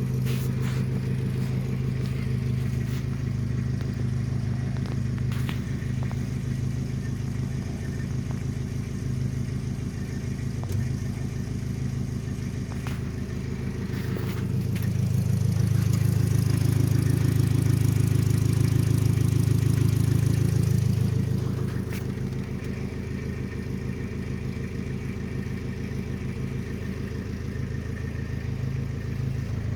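Nissan 720 pickup engine running at a steady idle; about halfway through its speed and loudness rise and hold for around six seconds, then it drops back to idle.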